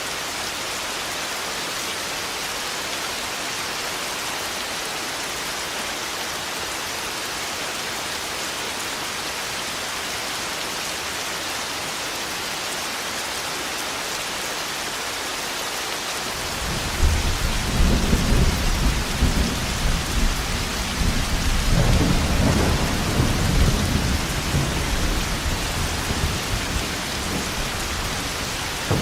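Steady rain hissing, then about halfway through a long low rumble of thunder breaks in and rolls on, swelling and fading, under the rain to the end.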